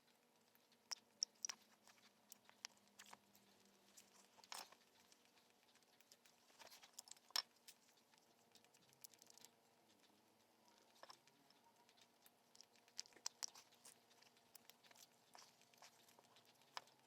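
Near silence, with faint, scattered clicks and light taps of small parts or tools being handled, a few of them sharper.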